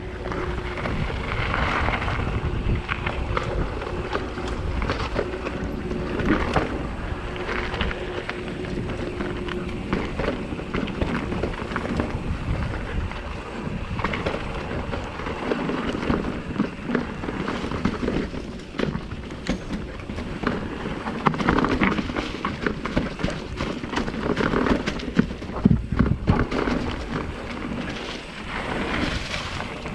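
A Commencal META Trail 29 mountain bike descending a rough, rocky trail. There is steady rushing wind noise, with constant rattling and frequent sharp knocks as the tyres hit rocks and roots and the bike shakes.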